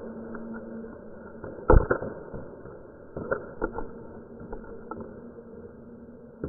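Paintball markers firing during a game: a loud pair of shots about two seconds in, then scattered single pops a second or so later.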